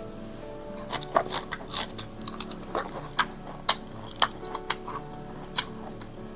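Close-miked eating: chewing, with a run of sharp, irregular clicks, over soft background music.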